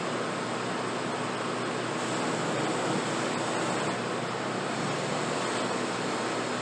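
A workshop power tool running steadily, its motor hum under a constant rushing hiss.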